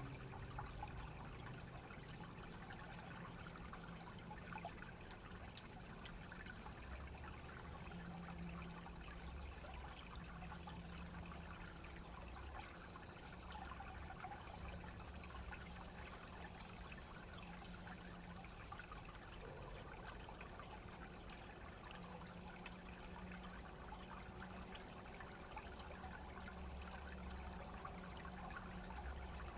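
Small clear stream running and trickling steadily.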